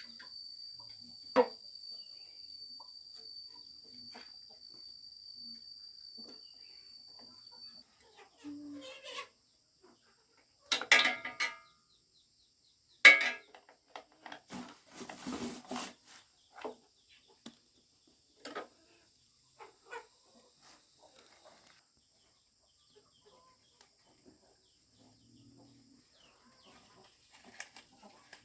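Outdoor farm sounds: a steady high insect drone that stops about eight seconds in, then a few sharp short animal calls and knocks around the middle, with scattered quieter rustles and calls after.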